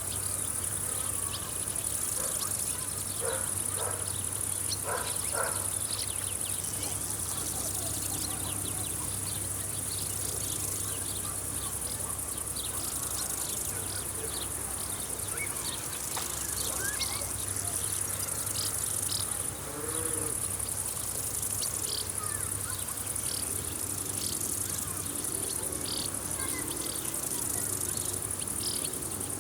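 Summer countryside insect chorus: crickets keep up a steady, high-pitched trill, with many short, scattered chirps over it.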